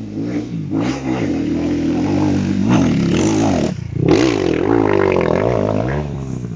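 Enduro motorcycle engine revving in repeated bursts, its pitch rising and falling as it labours, with a short drop about four seconds in before it revs high again.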